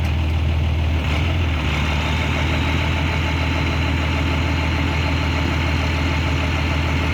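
Truck engine idling steadily with a low, even rumble as the old bread truck is loaded up to be hauled away.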